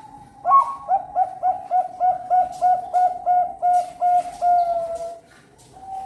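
Zebra dove (perkutut bangkok) singing its cooing song: a higher opening note, then a quick run of about a dozen short coos, three to four a second, ending on a longer drawn-out coo.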